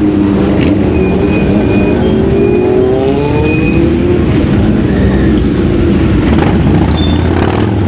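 Loud running of several vehicle engines, one rising in pitch as it accelerates a few seconds in, over a steady low rumble.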